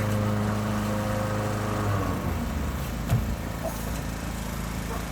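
An engine running steadily, its note falling away about two seconds in, with a single knock a second later.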